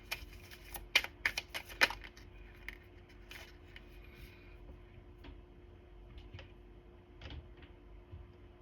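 A quick run of sharp clicks and taps in the first two seconds, then a few scattered clicks, over a faint steady hum.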